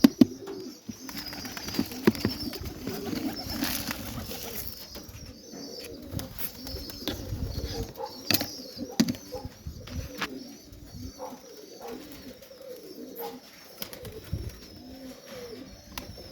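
Serbian Highflyer pigeons cooing repeatedly, with scattered sharp clicks and knocks and a loud knock right at the start.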